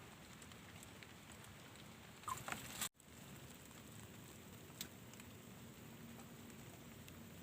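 Faint patter of rain, with a few small knocks about two and a half seconds in and one more near five seconds. The sound drops out for an instant just before three seconds.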